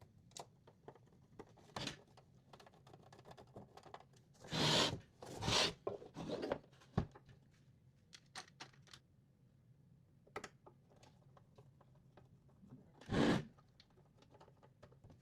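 Hand assembly work on a workbench: scattered small clicks and taps, with three short scraping, rasping sounds, two close together about four and a half seconds in and one near the end.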